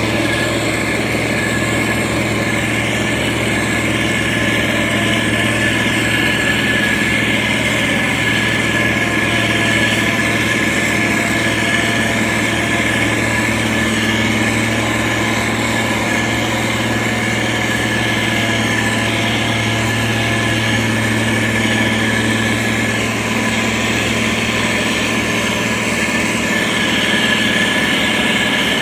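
SANY STG190C-8S motor grader's diesel engine running steadily, a low engine hum with a steady high whine over it.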